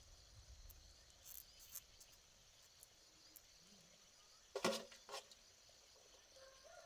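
Quiet rural ambience with a faint steady insect drone. About two-thirds of the way in comes a sharp knock, then a smaller one just after. A rooster starts to crow right at the end.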